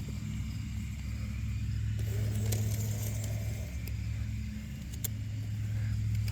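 LGB garden train's electric motor block running steadily with a low hum as the train backs out of a siding on track power, with a couple of faint clicks, about halfway through and near the end, from the wheels on the track.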